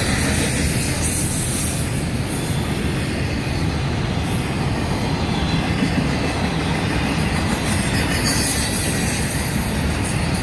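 CSX intermodal freight train's cars rolling past with a steady rumble of wheels on rail, and high-pitched wheel squeal rising now and then, about a second in and again near the end.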